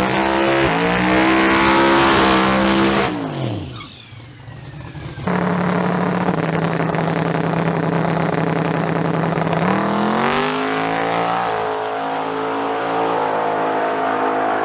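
Drag-racing truck engine revving up, then dropping away in pitch and fading about three seconds in. About five seconds in an engine sound comes in suddenly at a steady pitch, climbs briefly around ten seconds in, and settles again.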